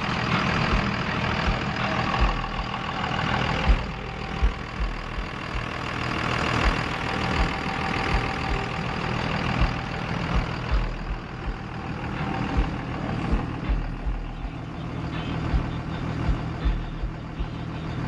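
Large vehicle engine idling steadily, with irregular low thumps through it.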